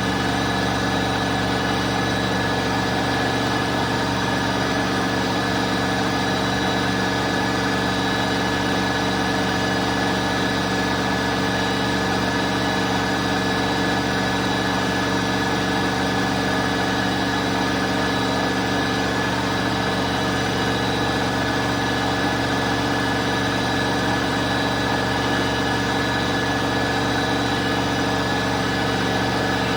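Bosch Aqua Star washing machine running at a steady speed: a constant motor hum with several fixed whining tones that do not change in pitch.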